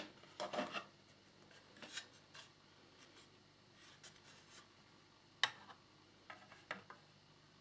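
Faint, scattered clicks and rubbing from small screws and plastic fairing parts of a scale model motorcycle being handled and fitted with an Allen key, with one sharper click about five and a half seconds in.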